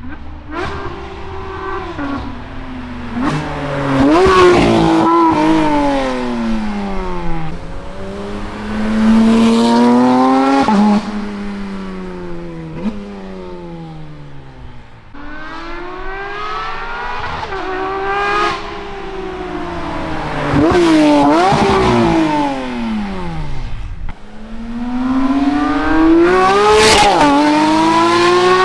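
Porsche 992 GT3 RS naturally aspirated flat-six through a full titanium valved race exhaust, revving hard in repeated climbs in pitch, each followed by a long falling sweep as the car backs off. This happens about four times over, with a little tyre noise.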